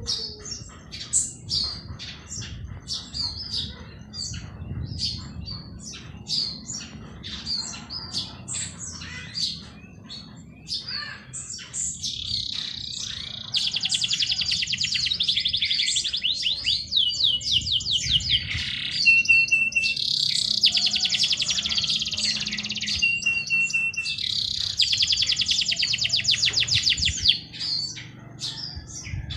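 Songbirds chirping: a busy run of short, quick chirps, then from about halfway on, loud long bursts of very rapid trilling broken by brief pauses.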